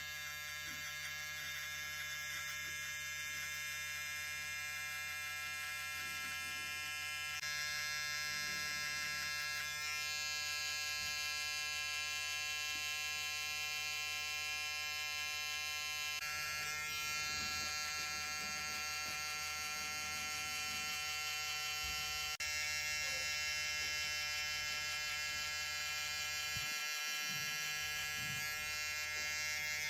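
Electric hair clipper running with a steady buzz that changes slightly in tone a few times.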